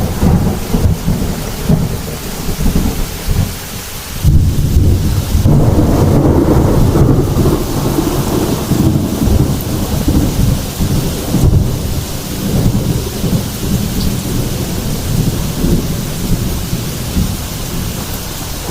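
Heavy rain with rolling thunder. A fresh roll of thunder breaks in about four seconds in and slowly fades under the steady hiss of the rain.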